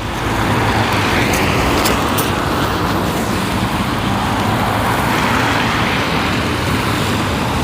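Road traffic: motor vehicles running and driving past close by, a steady hum of engines and tyre noise that swells as they pass.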